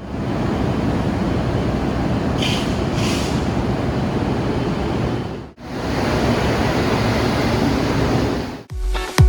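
Steady noise of a train running, in short clips cut together, with a brief hiss a few seconds in. Music with a steady beat starts near the end.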